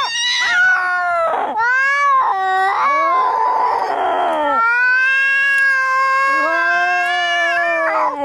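Angry cats caterwauling in a fight: long, drawn-out, wavering yowls, broken about three seconds in by a harsh hiss of about a second and a half before the yowling resumes.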